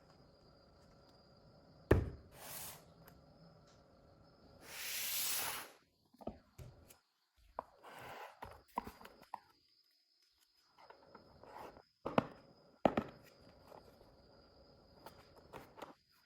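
Packaging being handled during an unboxing: a sharp knock about two seconds in, a loud swishing rustle around five seconds, then scattered clicks, taps and short rustles.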